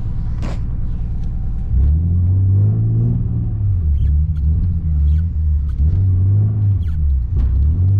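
Nissan 300ZX's V6 engine running under throttle, louder from about two seconds in and then revving up and down as the rear-wheel-drive car slides in deep snow.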